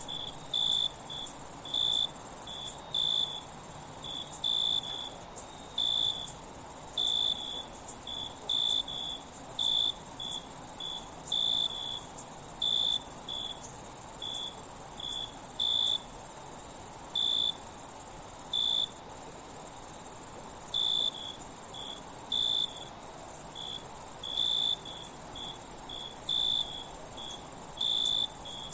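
Night insect chorus: crickets chirping in short, irregular pulses a couple of times a second over a continuous high-pitched insect trill.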